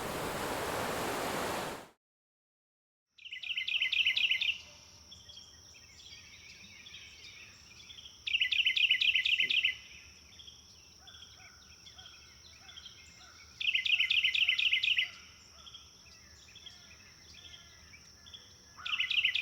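A steady rushing noise stops about two seconds in. After a short silence, a songbird sings a rapid trill about a second long, four times about five seconds apart, with fainter chirps and a thin steady high tone between the trills.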